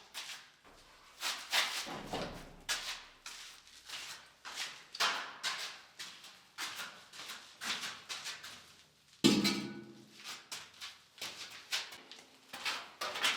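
Irregular knocks, clicks and rustles of objects being handled, with one louder knock that rings briefly about nine seconds in.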